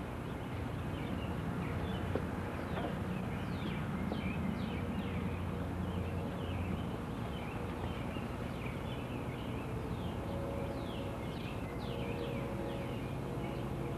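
Several songbirds singing at once: many short, overlapping downward-sliding chirps and calls, busier in the second half, over a low steady rumble.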